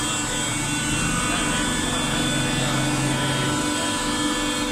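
Automatic waste-paper baling machine running: a steady machine hum made of many held tones, with a low tone swelling for about a second midway.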